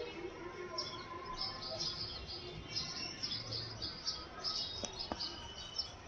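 Small birds chirping, with many short, high chirps following one another in quick succession.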